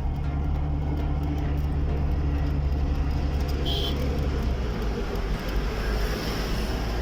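Motor vehicle engine running with a steady low hum, which eases off about four and a half seconds in, leaving a broader rushing road noise. A short high chirp sounds a little past halfway.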